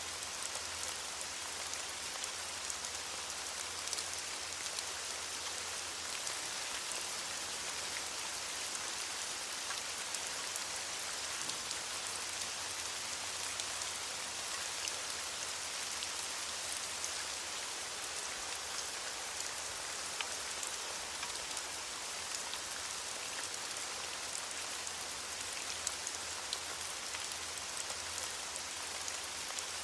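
Steady rain falling on leaves, a constant hiss sprinkled with many small drop ticks.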